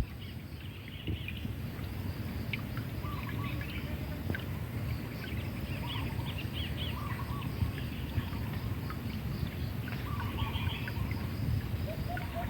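Birds chirping and warbling in scattered short calls over a steady low outdoor rumble, with a quick run of repeated call notes starting near the end.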